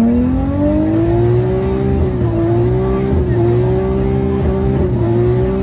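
Nissan GT-R's twin-turbo engine under hard acceleration. Its pitch rises for about two seconds, then holds at high revs with a couple of brief dips.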